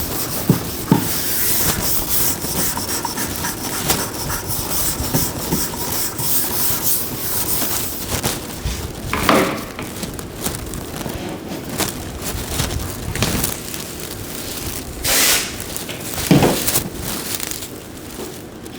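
Sanding on a car body panel: steady rubbing and scraping, with a few short, louder hisses.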